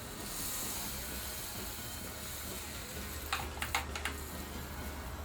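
Toy water pistol squirting a short hissing spray, followed a couple of seconds later by a few sharp clicks.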